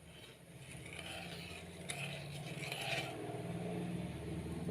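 A ladle stirring milk and sugar in an uruli, scraping the bottom of the pot, over a low steady hum that grows slowly louder.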